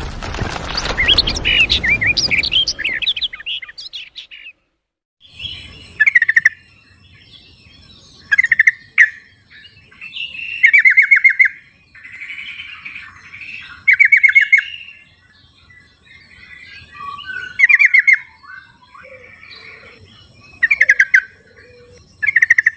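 Yellow-vented bulbuls (trucukan) calling in the wild: short, bubbling, chattering phrases repeated every two to three seconds, over a faint steady high-pitched tone. The first few seconds hold warbling song over a loud low rumble, which cuts off before the calls begin.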